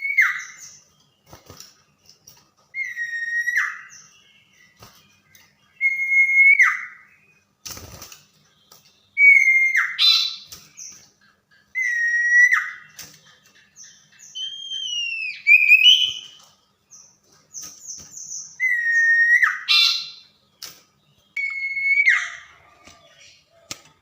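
Common iora (sirpu, cipoh) singing: a clear whistle held level and then dropping sharply at the end, repeated every two to three seconds. Midway there is one higher whistle that bends down and then up. A single sharp knock comes about eight seconds in.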